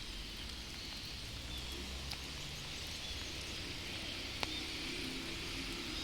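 Steady rain falling, with a few faint short bird chirps and one sharp tap about four and a half seconds in.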